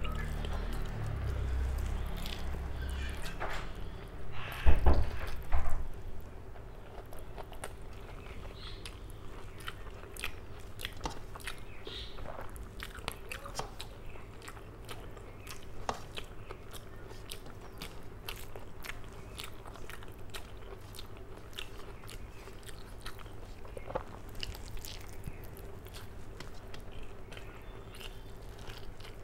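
Close-up chewing and wet mouth clicks of a person eating rice by hand, with a couple of loud thumps about five seconds in.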